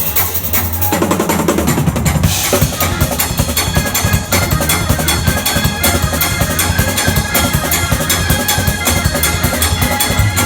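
Drum kit played hard and fast over steady music, a dense rapid run of hits that grows thicker about two seconds in.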